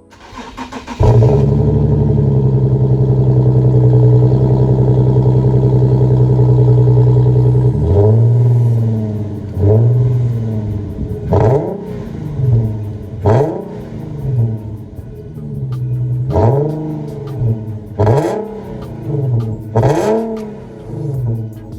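A motor-vehicle engine held at a steady high note, then from about eight seconds in revved down and up again and again, every couple of seconds, with sharp cracks between some of the revs.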